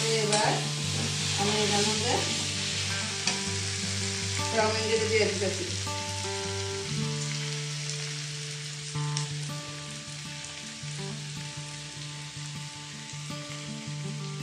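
Chicken and shredded vegetables sizzling as they are stir-fried in a hot steel kadai, with a metal ladle scraping and clicking against the pan. The sizzle grows quieter through the second half.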